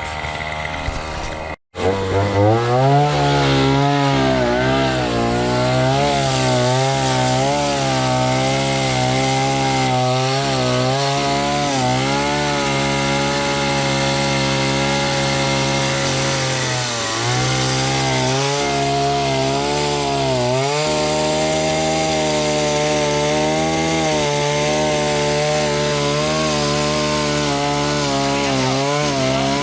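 Gasoline chainsaw running at high revs, cutting through a storm-felled tree; its pitch wavers up and down as the chain bites into the wood and eases off. There is a brief gap about two seconds in, then the saw revs up. Its pitch drops and picks up again twice later on.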